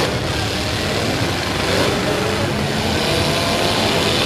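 Several demolition derby cars' engines running and revving together in a steady mechanical din.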